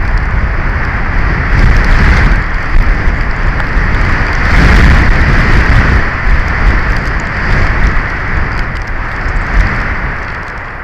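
Strong wind gusting over an outdoor camera microphone: a loud, continuous rushing noise with heavy low rumble, swelling strongest about five seconds in.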